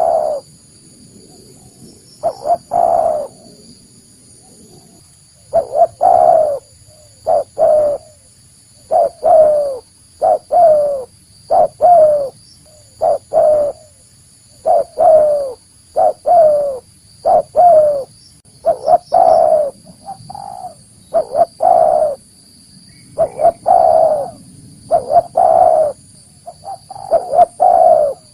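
Spotted dove (tekukur) cooing: phrase after phrase of short low coo notes, many falling in pitch, with a faint steady high whine behind.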